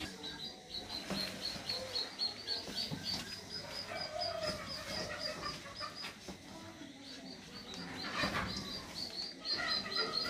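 A bird chirping in a fast, even series of short high peeps, about four a second, with a break of about a second about two-thirds of the way through. A brief knock sounds about eight seconds in.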